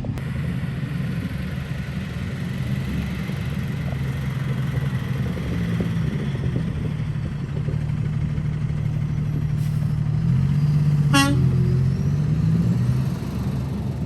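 Hi-rail maintenance truck running on the track, its engine a steady hum that grows louder as it approaches, with one short horn toot about eleven seconds in.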